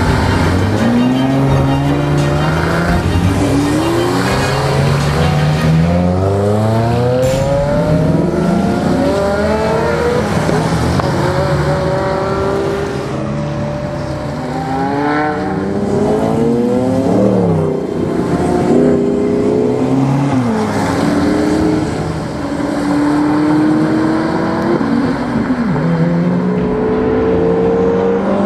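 High-performance sports car engines accelerating hard, revving up through the gears in repeated rising runs, with several cars sweeping past and dropping in pitch.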